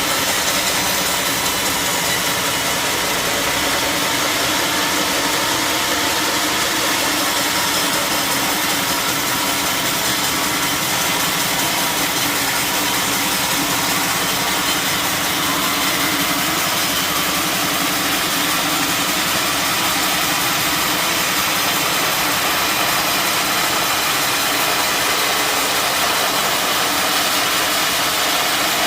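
Sawmill machinery running steadily: a constant engine drone with many steady tones over a wide hiss, unchanging throughout.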